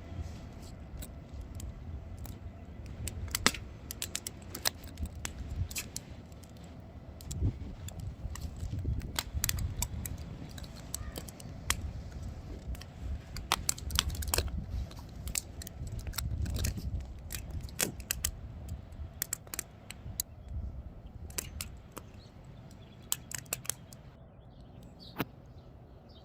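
Wood fire crackling: irregular sharp snaps and pops from the burning logs over a low, uneven rumble.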